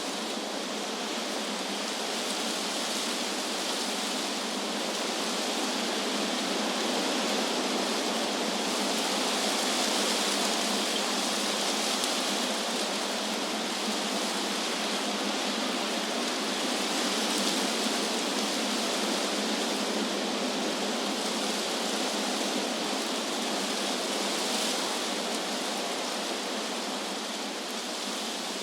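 Wind blowing through tree leaves: a steady rustling hiss that swells and eases slowly every few seconds.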